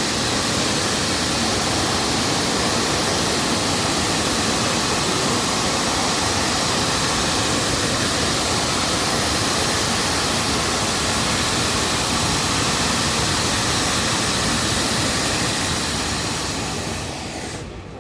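Fireworks going off in a continuous dense barrage, heard as a steady rushing hiss with no separate bangs, dying away shortly before the end.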